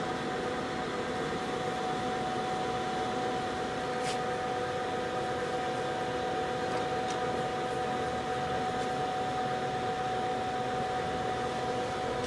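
Poreba TPK-80 engine lathe running with the carriage driven by the lead screw through the engaged half nut: a steady mechanical whine from the gearing, with a faint click about four seconds in.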